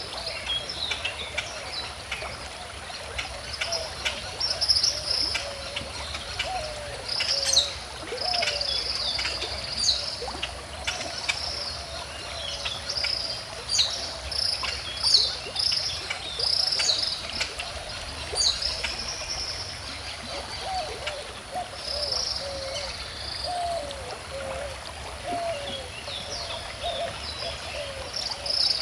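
A gently flowing stream trickling and gurgling, with birds chirping and calling many times throughout. A faint steady high-pitched insect drone runs underneath.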